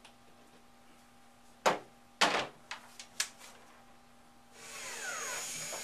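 A few sharp knocks and clicks from handling the clip and screw, then about two seconds of a power screwdriver running, its pitch dropping as it drives a screw in to fasten an LED strip mounting clip.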